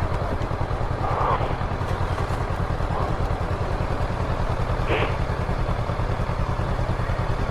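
Motorcycle engine running at low revs in traffic, a steady low rumble with a fine even pulse, with a couple of brief faint sounds about a second in and about five seconds in.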